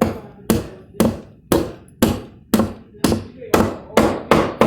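Hammer driving nails into wood: about ten blows at roughly two a second, coming quicker near the end.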